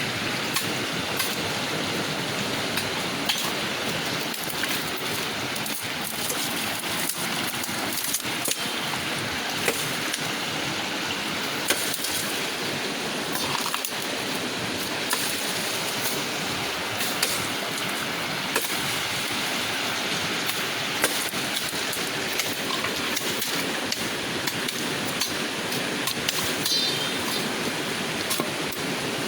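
Steady rushing of river water, with scattered light clicks and knocks.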